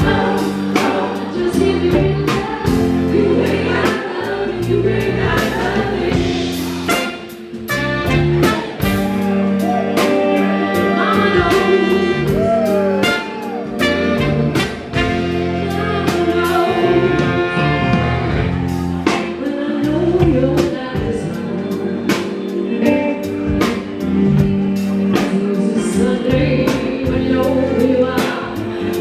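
A live soul-rock band playing: a steady drum beat, bass and other instruments, with sung vocals over them.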